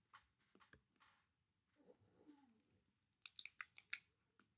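Quiet clicking of a computer keyboard: a few single clicks, then a quick run of about six clicks a little past three seconds in.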